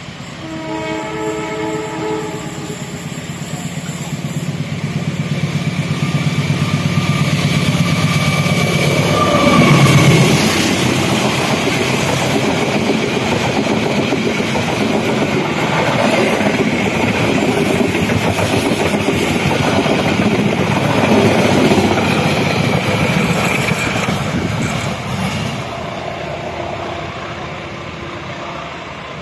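Diesel-hauled passenger train passing close by: the locomotive sounds its multi-tone horn briefly near the start, its engine note drops as it goes past about ten seconds in, then the coaches' wheels clatter over the track for about fifteen seconds before fading as the train moves away.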